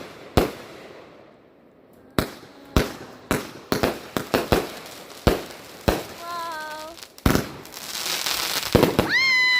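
Fireworks going off: an irregular run of sharp bangs and pops, with a short lull about a second in and a hiss that builds near the end.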